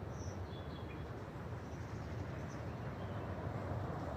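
A few faint, short, high bird chirps, mostly in the first second, over a steady low outdoor rumble.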